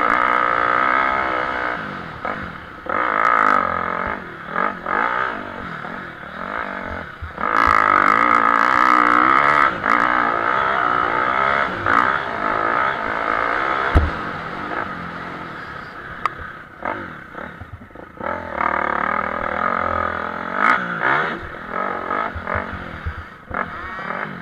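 Motocross motorcycles racing, engines revving up and down and swelling and fading in loudness several times as bikes pass. A single sharp knock about fourteen seconds in.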